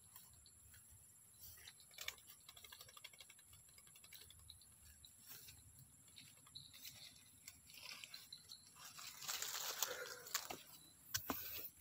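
Soft rustling and scattered light clicks, growing into a louder rustle about nine to ten seconds in, over a steady high insect drone.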